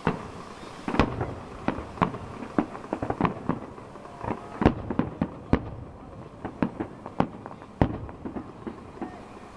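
Fireworks going off in a rapid, irregular series of sharp bangs and crackles, with a few louder booms among them.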